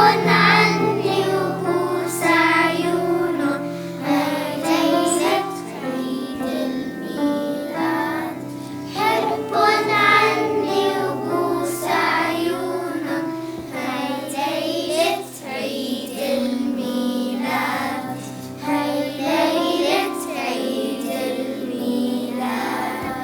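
Children's choir singing with instrumental accompaniment, sustained low notes under the voices.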